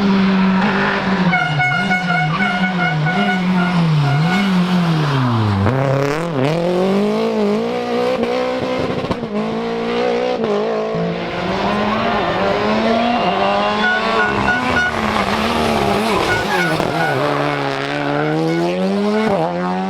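Rally car engine revving hard, the revs swinging rapidly up and down, falling away sharply about six seconds in and then climbing and dropping again, with tyres squealing.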